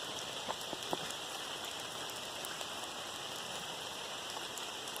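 Steady hiss and patter of falling water, with scattered small drips.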